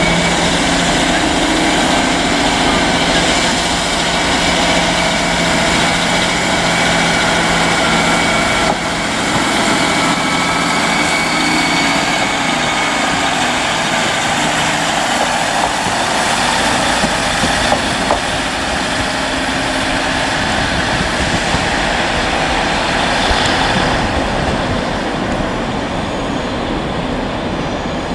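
A Northern passenger train running steadily: a dense, even engine noise with a few held tones, easing off slightly near the end.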